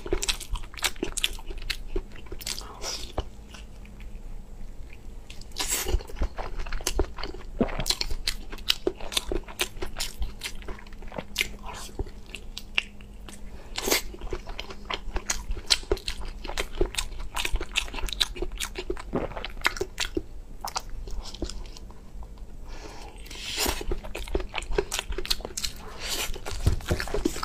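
Close-miked mouth sounds of a person biting and chewing a soft stuffed sausage: wet smacks and clicks at an irregular pace, with louder bites about 6 and 14 seconds in and again near the end.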